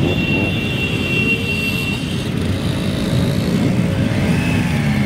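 Many motorcycle engines running together in a steady, loud rumble, with a high steady tone over it for about the first two seconds.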